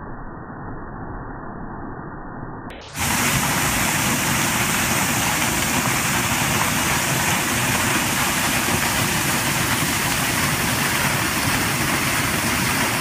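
Waterfall rushing as a steady roar of water. For about the first three seconds it sounds dull and muffled, then it abruptly becomes louder and full, with plenty of hiss.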